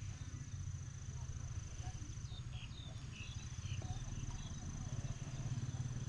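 Outdoor ambience: a steady, high-pitched insect trill over a low, steady rumble, with a few short, faint bird-like chirps about halfway through.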